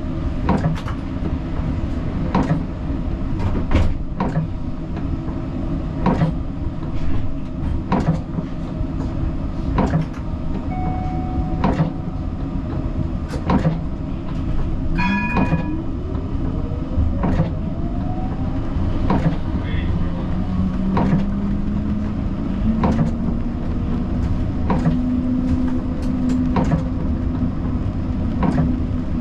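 Siemens Combino tram running along the line: a steady low rumble with a sharp click about every second and a half, and a motor whine rising in pitch about halfway through. A short beep sounds about halfway through.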